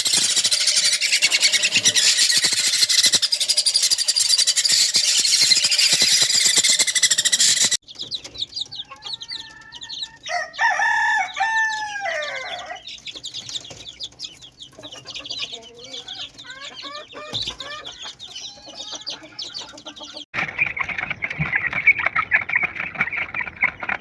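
Dense chatter of many caged small birds, cut off suddenly about eight seconds in. Then come scattered chirps and one long arching call from a larger bird, lasting about two seconds. More massed chirping starts after another cut near the end.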